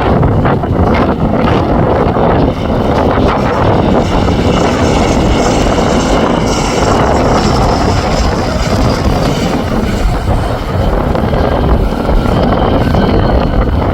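Airbus A220-300 jet airliner landing: its Pratt & Whitney PW1500G geared turbofan engines give a loud, steady rush with a high whine of several tones. Wind buffets the microphone.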